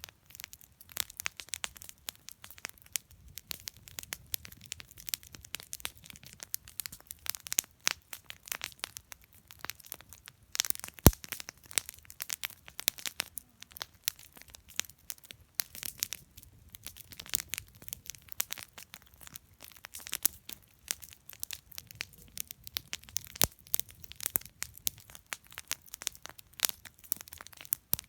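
Wood campfire crackling: a continuous, irregular run of small pops and snaps, with one sharp, much louder pop about 11 seconds in.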